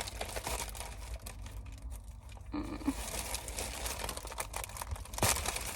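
Shopping packaging being handled, crinkling and rustling in many small crackles, with one louder crackle about five seconds in.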